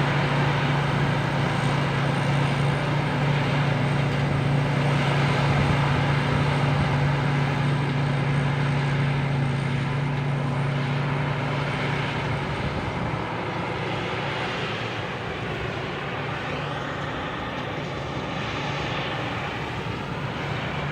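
Rice combine harvester's Hino diesel engine running steadily under load while harvesting, with the thresher's mechanical clatter behind it. The engine hum fades gradually in the second half as the machine moves away.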